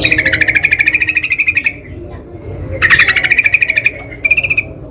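Yellow-vented bulbul (trucukan) calling: three bursts of rapid bubbling notes, the first two long and the last short, with brief pauses between them.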